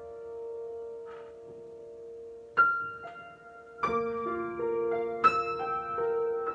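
Slow, sparse solo piano improvisation: held notes ring on quietly, then fresh chords are struck three times in the second half and left to ring out.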